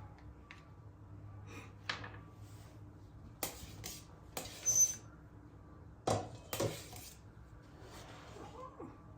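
Kitchenware being handled: a series of separate clinks and knocks of glass and dishes. The loudest comes just under five seconds in, with a short high ring.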